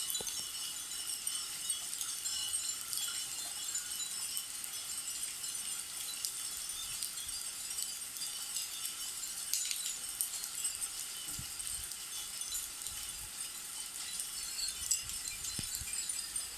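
Dense, continuous tinkling of many Japanese furin wind chimes ringing together over the steady hiss of rain.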